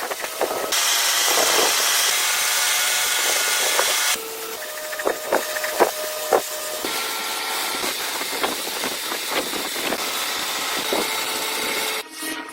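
Workshop tool noise: a steady hiss with scattered knocks and clanks, changing abruptly every few seconds.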